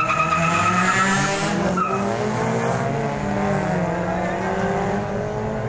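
Suzuki Ertiga with an aftermarket exhaust accelerating hard, its engine pitch climbing steadily after a shift about two seconds in. A high squeal sounds over the engine during the first two seconds.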